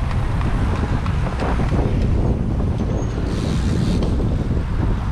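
Wind buffeting the microphone during a bicycle ride, a steady low rumble, with a short hiss about three seconds in.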